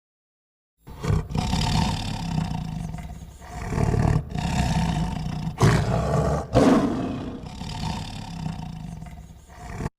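A big cat roaring: a run of long, deep roars and growls that starts abruptly about a second in and cuts off suddenly near the end, like an inserted sound clip.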